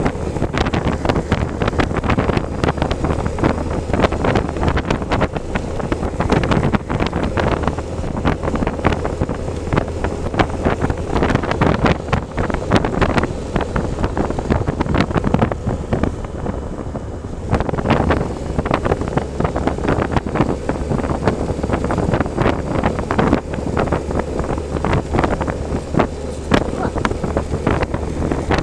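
Wind buffeting the microphone of a moving motorcycle, with a steady low engine hum underneath and constant rattling.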